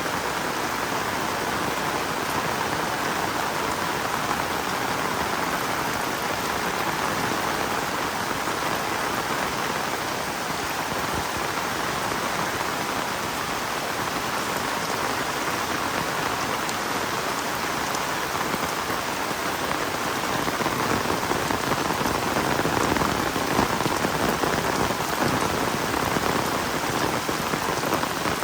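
Heavy rain falling steadily as a dense, even hiss, growing a little louder and fuller near the end.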